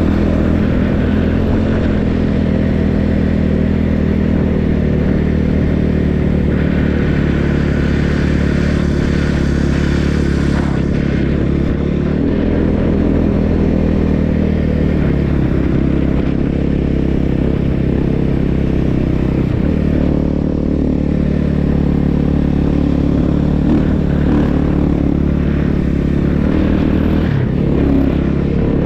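Snow bike's motorcycle engine running continuously under way, its pitch shifting a little a few times.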